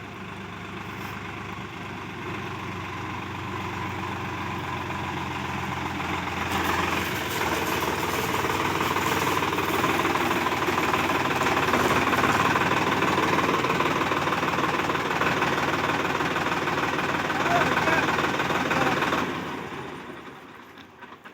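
Solis 5055 55 hp diesel tractor engine running hard during a power test. It grows louder over the first several seconds, holds there, then dies away about nineteen to twenty seconds in.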